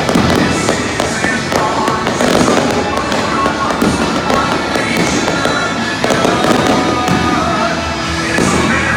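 Fireworks going off in quick succession, bangs and crackle, over music playing throughout.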